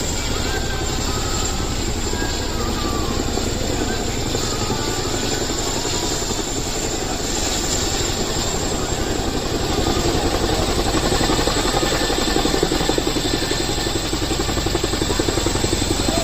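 Helicopter flying with a rapid, steady rotor beat that grows louder about two-thirds of the way through.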